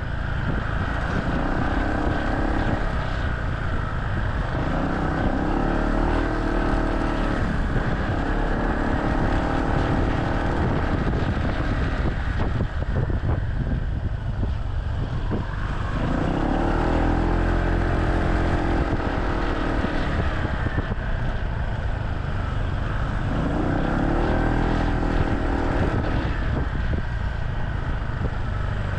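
Motorcycle taxi's engine heard from the pillion, speeding up and easing off again and again in traffic, over a steady rush of road and wind noise.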